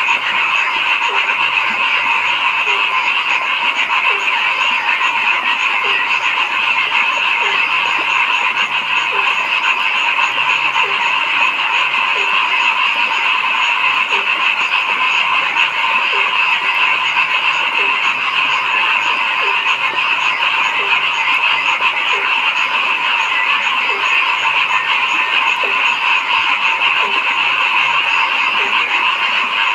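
A dense, continuous chorus of many frogs calling. A short call repeats about once a second over it, and a lower hum comes and goes underneath.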